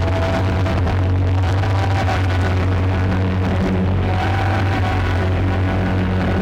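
Distorted ambient drone from a eurorack modular synthesizer, with a Lyra-8 FX, a Mimeophon delay and a DPO oscillator. A heavy, steady low hum sits under a gritty noise haze, with held tones higher up that shift around midway.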